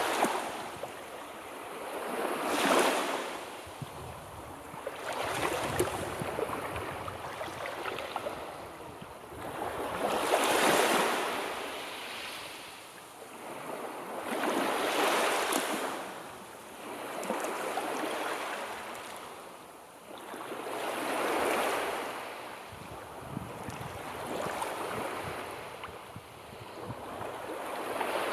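Sea waves washing in and drawing back, a new wave about every three to five seconds, each swelling to a hiss and fading away.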